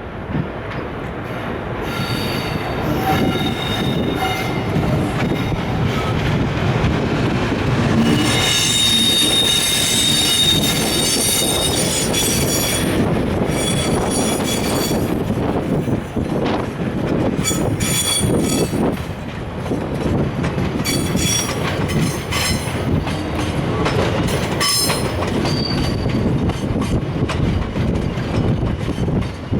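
Container freight train hauled by an EF510 electric locomotive rolling in slowly to stop, wagons rumbling steadily with high-pitched squealing from wheels and brakes that comes and goes, strongest about eight to twelve seconds in.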